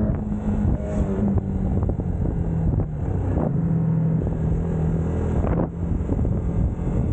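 UM Scrambler X motorcycle engine running at road speed under heavy wind noise on the microphone; its pitch steps down a couple of times, near one second in and again about three seconds in.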